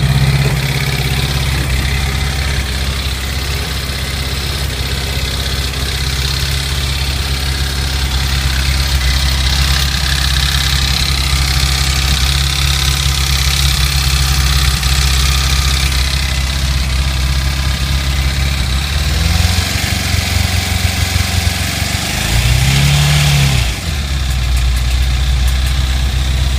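Honda CBR600RR inline-four engine running at idle with a knock, which the owner puts down to a self-tapping screw that got into the combustion chamber. The revs rise briefly and fall back about three-quarters of the way through.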